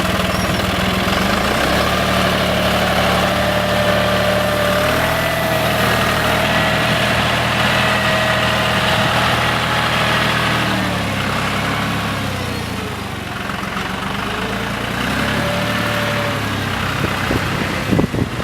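Farm tractor engine running steadily with a thin whine over it; the engine note sags partway through and then picks up again.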